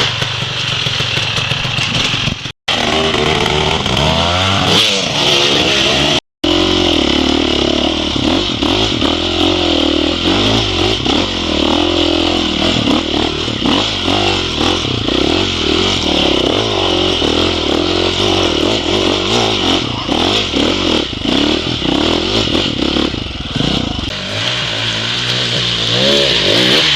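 Dirt bike engine running and revving up and down at low speed, its pitch rising and falling continually, with two brief drop-outs in the first few seconds.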